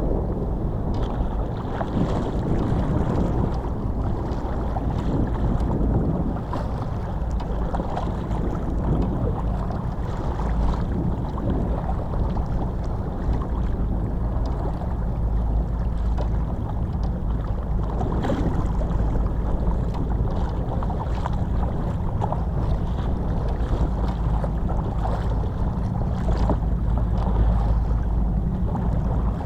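Steady low rumble and water noise of a small boat under way, with wind buffeting the microphone.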